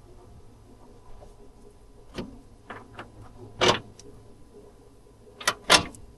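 Hand tools and metal parts clicking and knocking as they are handled during car repair work. There are about five sharp knocks: a loud one midway and two close together near the end, over a faint low hum.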